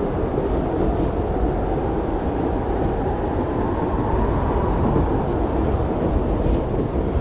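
Blizzard wind blowing steadily, a deep rushing noise with a faint whistle on top that rises a little and falls back around the middle.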